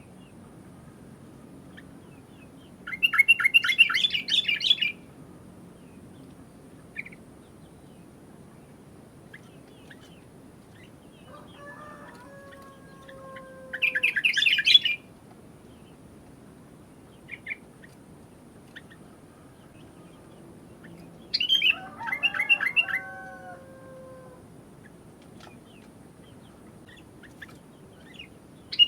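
Sooty-headed bulbul (kutilang) singing: three loud bursts of rapid chattering notes, each a second or two long and roughly ten seconds apart, with soft falling whistles and faint single chirps in between.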